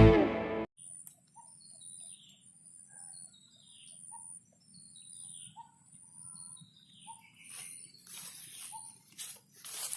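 Guitar music cuts off in the first second, then a bird calls repeatedly with short falling chirps, about one every second or so, over a faint steady high-pitched whine. Some rustling noise comes in near the end.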